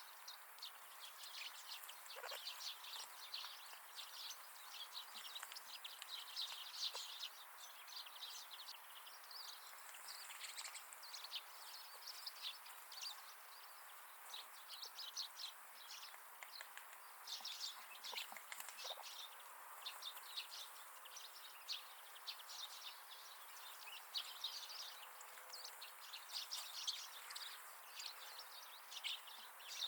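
Wild winter birds chirping and twittering: a steady run of many short, high calls from several birds, faint over a light background hiss.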